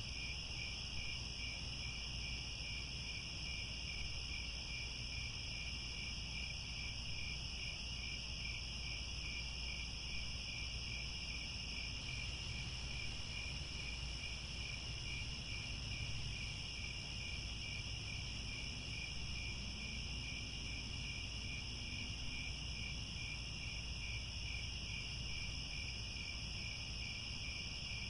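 Chorus of crickets trilling steadily at high pitch, with a rapid even pulse in the lower trill, over a faint low rumble.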